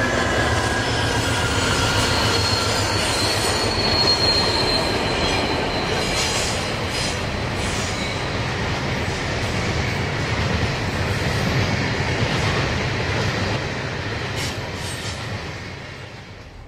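Diesel-hauled grain train passing close by, with locomotive engines working and steel wheels rolling on the rails. The end of a horn note dies away at the very start, a high wheel squeal comes in a few seconds in, and then the wagons click over the rail joints as the train fades near the end.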